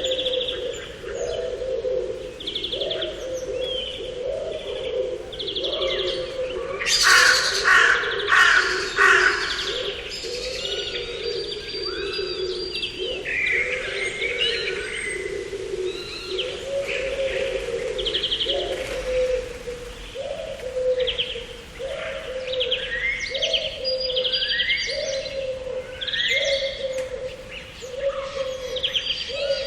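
Several garden birds singing and chirping, with higher trills and chirps over a low call repeated about once a second. A louder run of chirping comes about seven seconds in.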